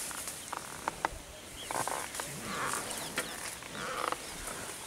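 Birds calling in tall grassland: several short, chattering calls a second or so apart and thin high chirps, with a few sharp clicks.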